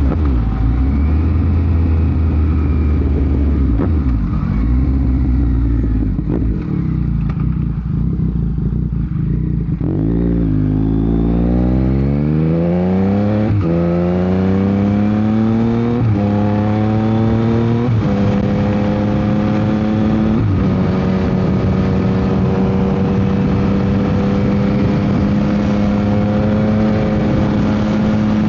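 Yamaha MT-09 SP inline three-cylinder through an aftermarket Dominator GP exhaust, running low and steady, then accelerating hard with the pitch rising and dropping abruptly about every two seconds as it shifts up through the gears, before settling into a steady cruise. Wind noise is mixed in on the microphone.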